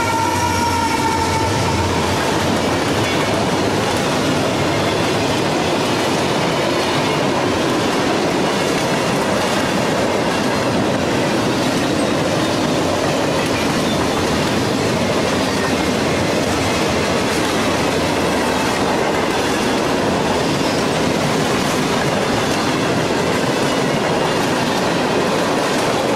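Freight train passing close by: a diesel locomotive's horn trails off about two seconds in, then the steady rolling noise of boxcars and covered hoppers on the rails, loud and unbroken.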